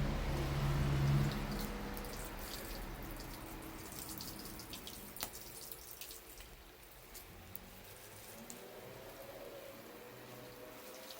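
Water running and dripping at a tap while a tin can is rinsed, with scattered small clicks. A louder low steady hum fades out over the first two seconds.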